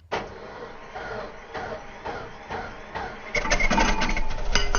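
Small petrol car engine being started: noisy turning-over that catches and settles into a louder, steady run with a low rumble about three seconds in.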